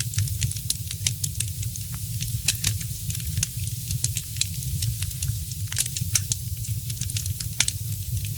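Wood fire crackling in a fireplace: irregular sharp pops and snaps several times a second over a steady low rumble.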